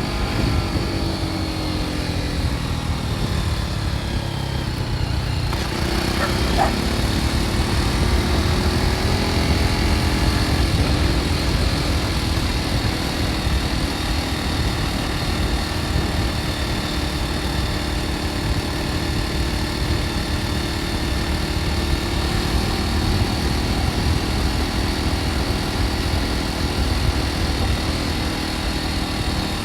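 BMW G310 R's single-cylinder engine through its stock exhaust, heard from the saddle: the engine note falls for the first five seconds as the bike slows, then climbs again about six seconds in and settles into a steady cruise, with a low rumble of wind and road underneath.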